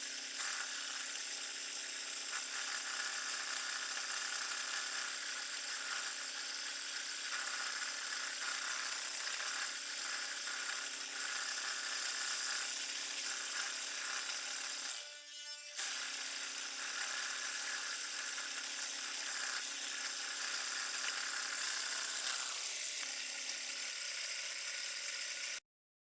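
Wood lathe running with a steady motor whine and a high hiss over it. It breaks off briefly about halfway, then runs on until it cuts off abruptly near the end.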